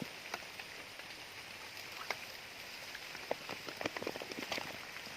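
Steady rain with scattered sharp drips and small splashes, coming thickest about three and a half to four and a half seconds in.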